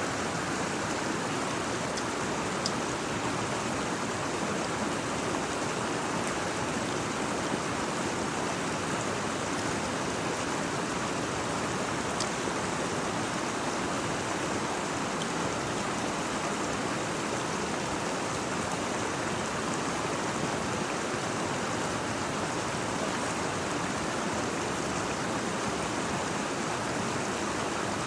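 Steady rushing water, an even unbroken noise, with a few faint ticks.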